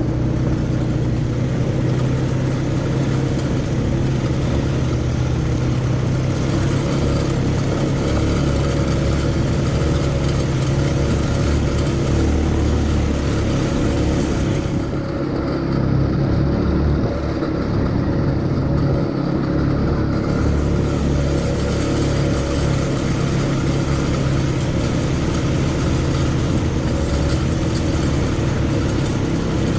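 ATV engine running steadily throughout, a continuous low hum.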